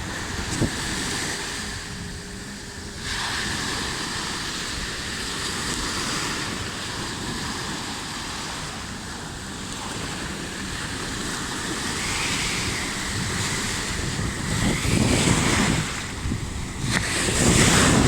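Sea waves surging and breaking on a beach, a steady rush that swells and eases, with wind buffeting the microphone in stronger gusts near the end.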